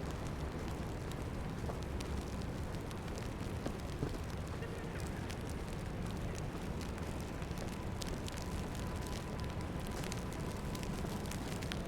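Snowy city street ambience: a steady low rumble with many small crackling ticks scattered throughout.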